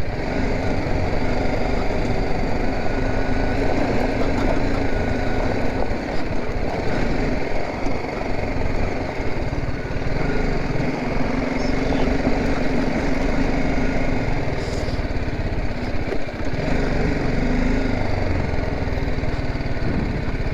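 BMW G 310 GS single-cylinder motorcycle engine running steadily while the bike is ridden, its note shifting a little up and down.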